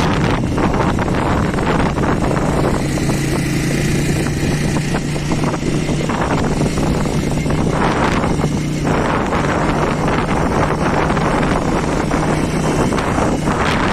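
Strong wind buffeting the microphone in a loud, steady rush, with a steady low hum underneath from a few seconds in until near the end.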